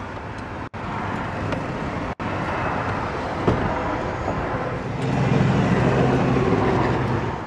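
An electric motor, the conversion van's power sofa-bed mechanism, hums steadily for about two and a half seconds near the end and stops. Before it there is steady outdoor traffic noise and a single click.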